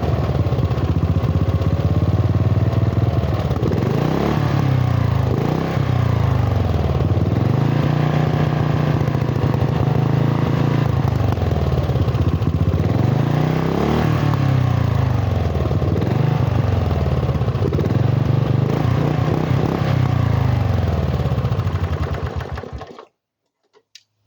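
Lawn tractor engine, freshly rebuilt after being flooded, running loudly through its homemade exhaust and being revved up and down again and again. The engine winds down and stops near the end.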